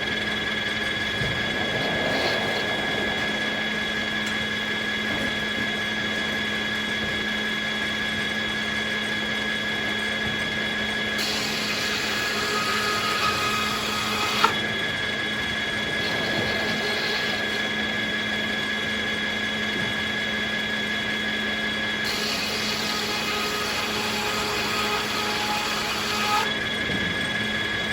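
Circular sawmill running steadily with a constant hum and whine, the noise growing hissier in two stretches of several seconds; a single sharp click about halfway through.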